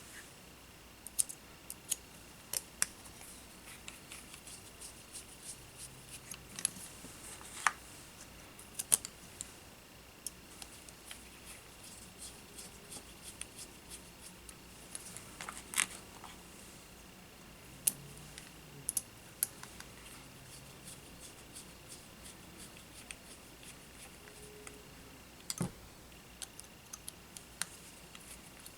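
Workbench sounds of a drone-frame repair: scattered small sharp clicks, snips and taps of hand tools and small parts being handled, over a faint steady high-pitched whine.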